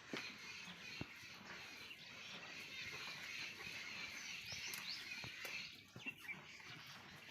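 Farmyard ambience: small birds chirping over a steady outdoor hiss, with a few sharp knocks.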